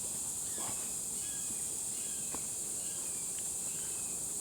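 Steady high-pitched insect chorus, crickets or katydids, with a few faint short chirps and light ticks over it.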